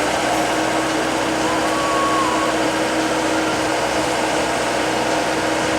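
Komatsu hydraulic excavator's diesel engine running steadily at working speed, a loud even drone with a constant low hum.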